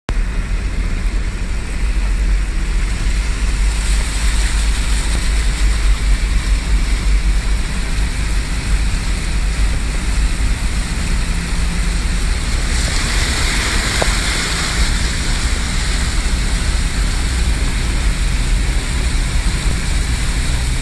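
Floodwater rushing: a steady, loud roar with a heavy low rumble, turning brighter and hissier for a couple of seconds about two-thirds of the way in.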